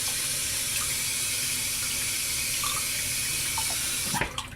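Warm water running from a tap through a shaving brush's knot: a steady rush that cuts off abruptly near the end.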